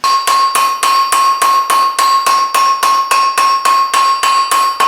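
Rapid, even hammer blows, about four to five a second, from a ball peen hammer with MIG weld beads on its face, texturing a flat mild steel bar on an anvil. Every strike rings at the same steady pitch.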